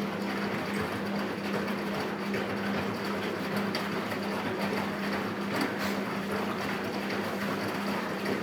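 Philco Bendix W84RX washing machine running, a steady hum under a broad mechanical noise that started just before.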